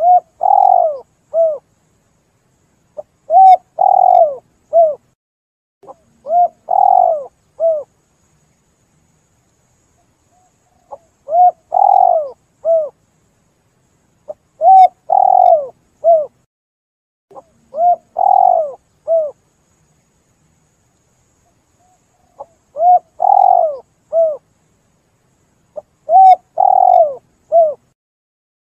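Spotted dove cooing in repeated phrases every three to four seconds. Each phrase is a short note, a longer one and a short one, with two longer pauses between groups of phrases.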